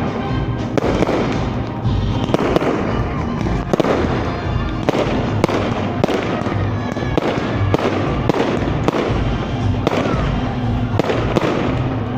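Fireworks display: shells bursting in quick, unbroken succession, about one or two loud bangs a second.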